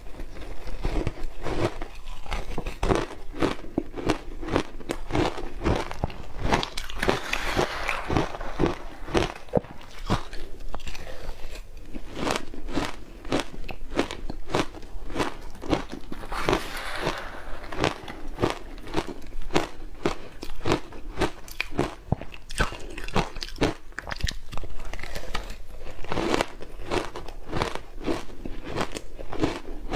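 A person biting and chewing ice coated in matcha green tea powder: continuous crunching, several crunches a second.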